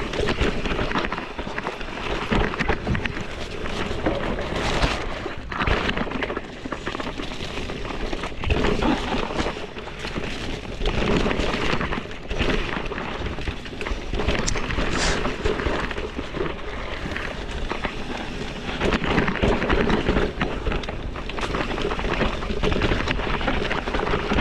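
A bike running down a rough dirt single-track trail: wind buffeting the microphone, tyres crunching over the ground and the frame rattling with irregular knocks and surges.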